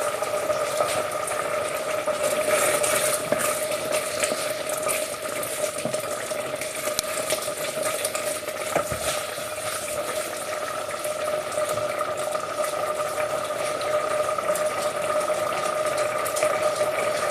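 Risotto simmering in a pan, with steady bubbling and small crackles, over a steady hum.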